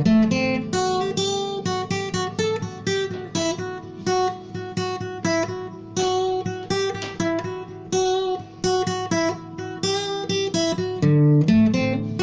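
Instrumental acoustic guitar music: a steady run of plucked notes, fingerpicked and strummed, with a melody over lower bass notes.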